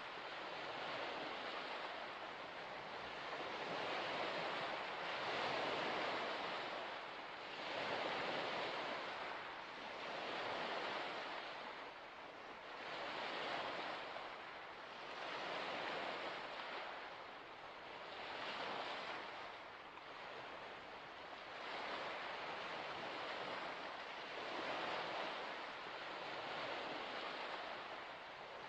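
Small waves washing against a shore, a steady hiss of water that swells and falls back every two to three seconds.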